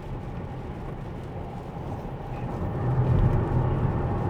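Road noise inside a Tesla's cabin, the tyres running on a wet road in the rain, with a low hum that grows louder about three seconds in.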